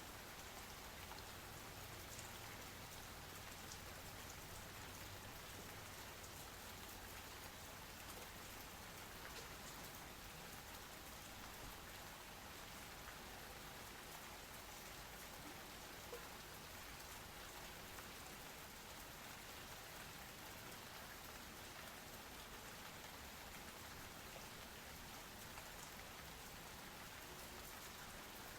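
Steady rain falling, with individual drops ticking on a surface over an even hiss.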